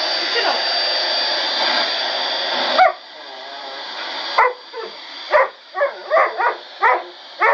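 Vacuum cleaner running with a German shepherd whining at it. Just before three seconds in, the vacuum noise drops sharply. The dog then gives a series of short, high barks and yips.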